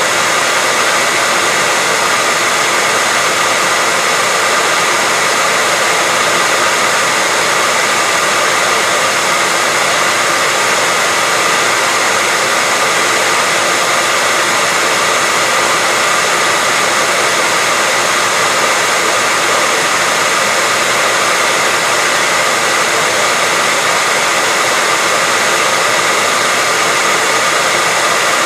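Hair dryer running steadily: an even rush of air with a faint steady whine in it.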